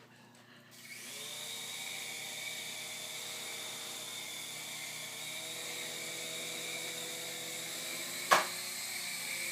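V319 mini RC helicopter's small electric motors and rotors spinning up about a second in, then running with a steady high whine as it flies. A sharp knock comes near the end, as it hits something.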